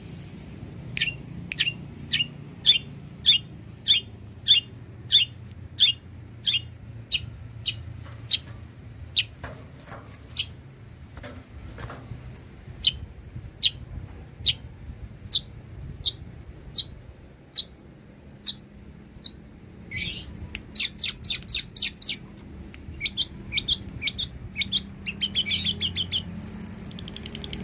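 Long-tailed shrike (cendet) in full song: a regular string of sharp, harsh chirps, a bit under two a second, breaking into faster chattering runs in the last third, over a low steady hum.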